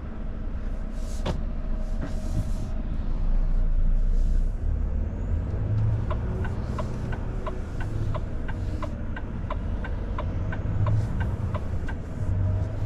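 A Volvo FH 500 truck's engine rumbling, heard from inside the cab. There are two short hisses of air early on, and a run of quick, regular ticks in the middle.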